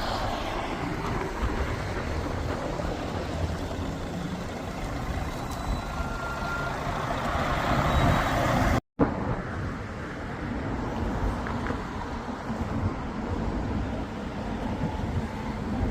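Road traffic noise: motor vehicles running past, swelling to a louder pass about eight seconds in, cut off by a momentary dropout, then steady traffic again.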